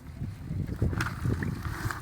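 Wind buffeting the microphone in a low, uneven rumble, with one sharp click about a second in.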